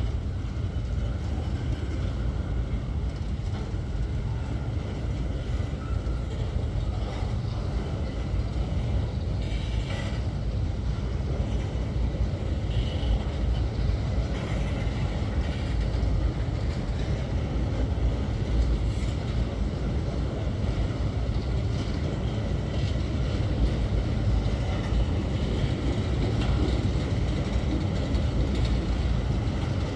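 Empty grain freight train rolling past, a steady rumble of steel wheels on the rails, with some wind on the microphone.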